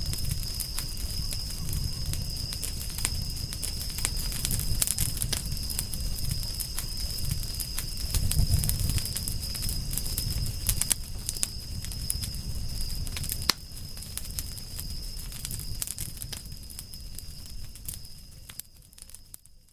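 Wood fire crackling, with many sharp pops and snaps over a low rumble of flames, and a steady high-pitched tone behind it. The sound steps down in loudness about two-thirds of the way through and fades out near the end.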